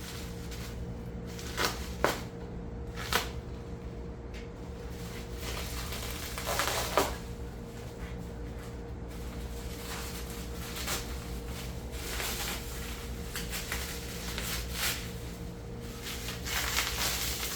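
Scattered clicks, knocks and rustles of hands handling tools and materials in gloves, over a steady background hum.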